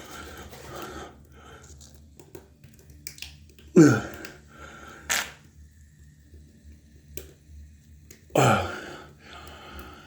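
Two short wordless vocal sounds, each falling steeply in pitch, about four seconds apart, with a sharp click between them.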